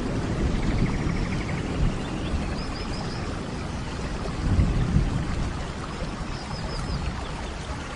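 Steady heavy rain with low rolling thunder, the rumble swelling near the start and again about four and a half seconds in.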